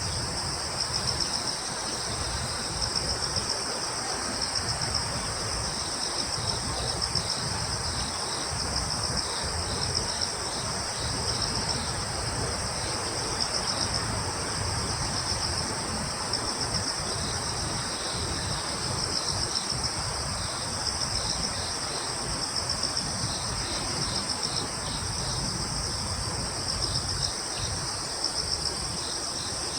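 A chorus of crickets: several insects trilling continuously on high, fine-pulsed notes, with others chirping in short, regularly repeated pulses, over a soft steady background hiss.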